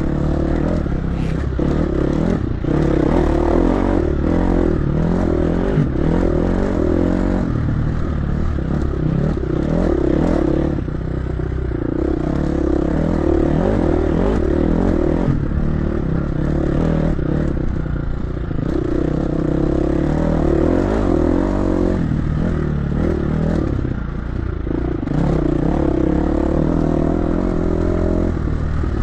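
Dirt bike engine running under way, its pitch rising and falling again and again with the throttle, with short easings-off a few times.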